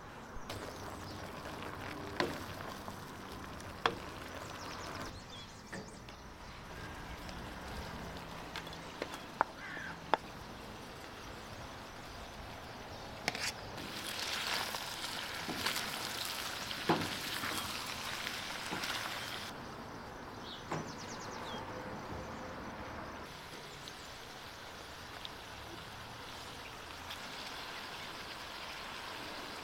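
Chopped peppers, onion and chicken sizzling in a wok as they are stirred with a wooden spoon, the sizzle loudest for several seconds around the middle. Before it come scattered sharp clicks and knocks.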